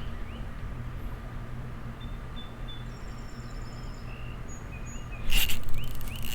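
Small birds chirping, with short rising notes and a brief high trill, over a steady low hum. About five seconds in, a sudden louder rush of noise cuts in.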